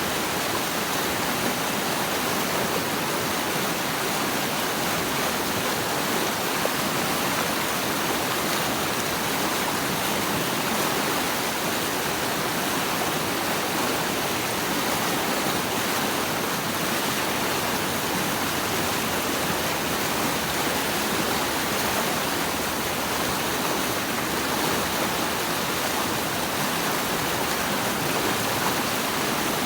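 Steady rush of running water, an even hiss with little low rumble and no change in level.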